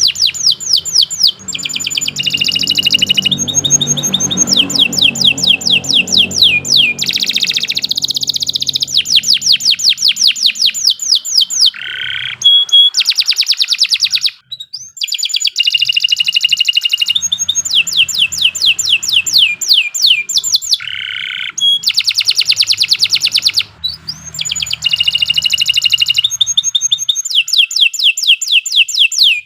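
Domestic canary of the Indonesian Kenari Nusantara type singing a long, continuous song of fast repeated trills and rapid chirps, with two brief pauses, about 14 and 24 seconds in.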